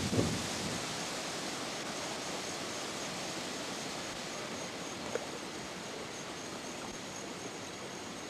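Steady rushing of high floodwater, an even hiss-like roar, with a few low thumps of wind on the microphone in the first second.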